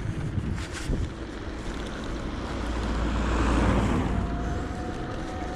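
Wind and road noise on an action camera riding on an electric bike going downhill, with a rush that swells to a peak about three and a half seconds in and fades, then a faint steady whine.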